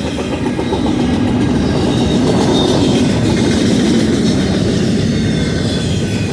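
BNSF intermodal freight train's cars rolling past on the rails: a loud, steady rumble and clatter of steel wheels, with a faint high squeal.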